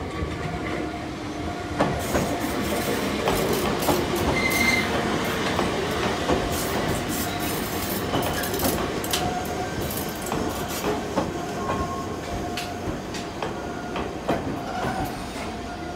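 Enoshima Electric Railway (Enoden) train pulling slowly into the station, wheels clicking over rail joints with a brief wheel squeal, while a level-crossing bell rings steadily.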